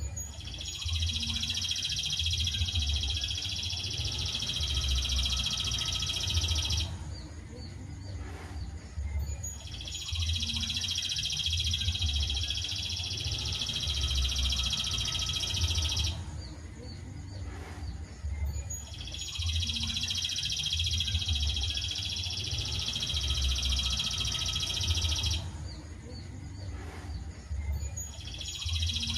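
Masteran birdsong recording: a songbird's long, steady, high trill lasting about six seconds, repeated three times at even intervals with short quieter gaps, over a low rumble.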